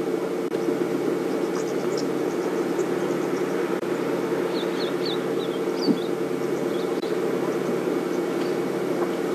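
A steady low droning hum throughout, with a few short, high bird chirps about halfway through.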